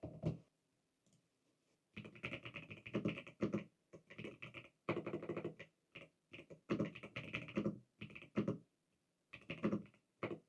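Typing on a computer keyboard in quick bursts of keystrokes with short pauses between them.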